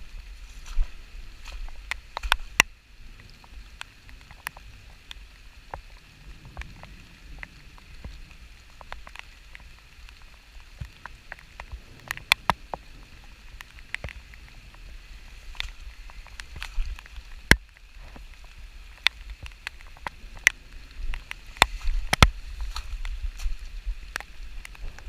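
Raindrops tapping close to the microphone in sharp, irregular ticks, over a low rumble of wind buffeting the microphone.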